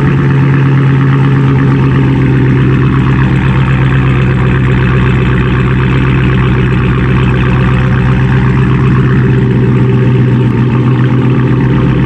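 Dodge Hellcat's supercharged 6.2-litre Hemi V8 idling steadily and loudly through a mid-pipe delete and Dynomax race bullet mufflers.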